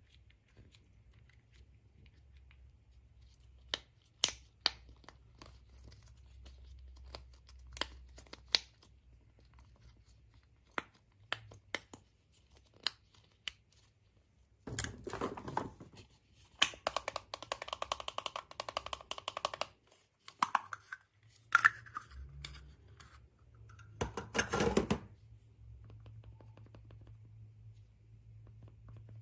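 Packaging being handled and torn: scattered sharp taps and clicks, then three spells of tearing and crinkling, the longest lasting about three seconds.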